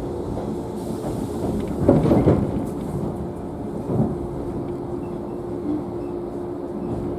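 Inside a JNR 113-series electric train car: a steady hum and rumble, with a loud rumbling thump about two seconds in and a smaller one about two seconds after it.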